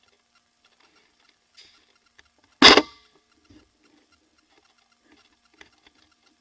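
An airsoft gun firing one short burst, loud and sharp, lasting about a third of a second a little under three seconds in, with faint clicks and rustling of gear around it.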